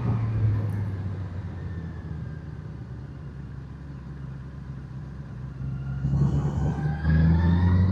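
Motorcycle engine running on the road, dropping back and quieter for a few seconds, then revving up about six seconds in with a rising pitch as it accelerates.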